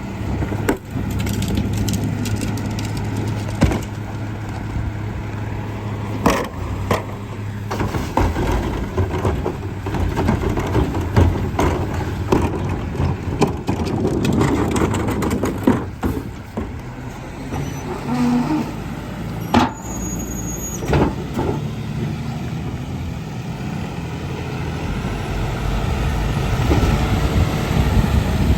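Garbage truck running, its engine humming steadily, with scattered bangs and clanks throughout, busiest in the middle stretch.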